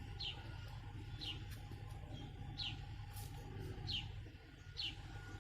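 A small bird calling: short, high chirps that fall in pitch, repeated about five times at roughly one-second intervals, over a steady low hum.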